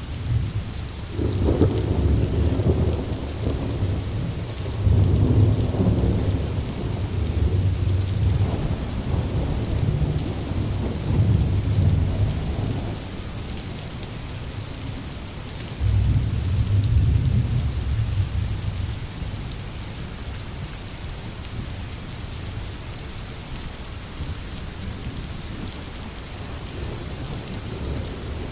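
Steady rain with distant thunder rumbling: one long roll that starts a second or two in and lasts about ten seconds, then a shorter roll a little past halfway.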